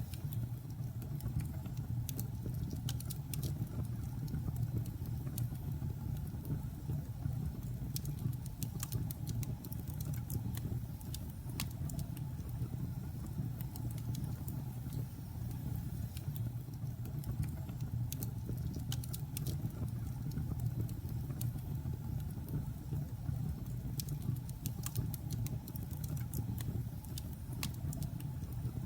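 Logs burning in a fireplace, crackling and popping irregularly over a steady low rumble.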